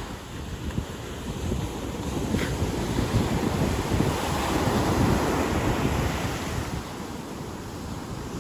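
Ocean surf washing onto a beach, swelling to a peak around the middle and easing off, with wind rumbling on the microphone.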